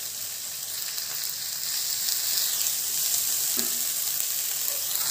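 Chopped spinach and amaranth leaves with onions sautéing in oil in a non-stick kadai, stirred with a wooden spatula: a steady, high frying sizzle that gets a little louder about two seconds in.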